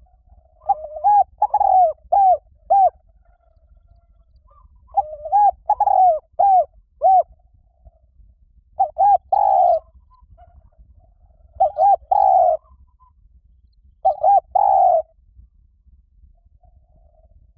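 Spotted dove cooing: five phrases of a few notes each, one every three to four seconds, the first two phrases longer than the rest.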